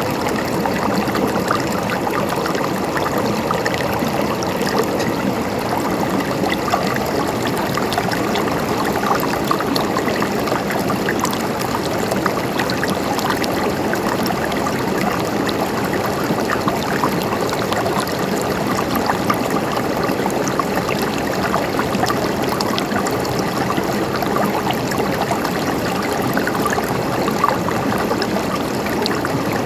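Mountain stream flowing steadily: a continuous babble and trickle of running water.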